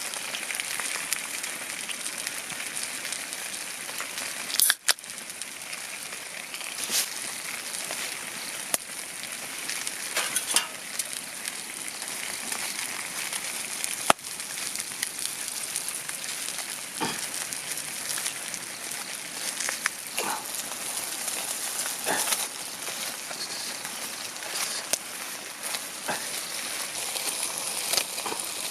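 Food frying in a pan, a steady sizzle with scattered sharp pops; two louder cracks stand out, about five and fourteen seconds in.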